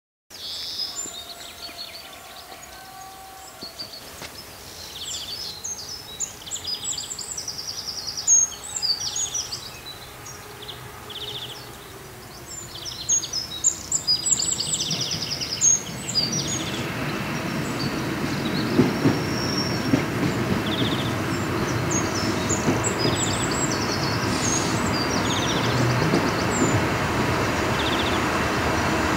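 Birds chirping over quiet open air, then from about halfway a metre-gauge diesel railcar approaching along the track, its engine and wheel noise growing steadily louder.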